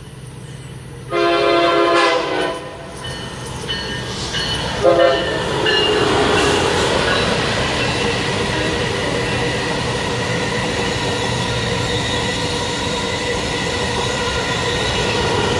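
Amtrak Acela high-speed trainset sounding its horn as it approaches: a long blast about a second in, then a short one a few seconds later. It then passes at speed with a loud rush of wheels on rail and a steady whine.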